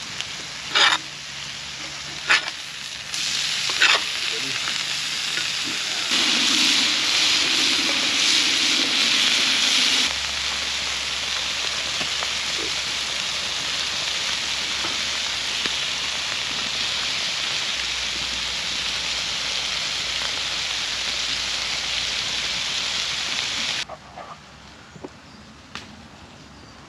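Smash burgers sizzling on a cast iron Petromax FP40 pan over a campfire, a steady frying hiss. Three sharp knocks come in the first few seconds, and the sizzle drops abruptly near the end.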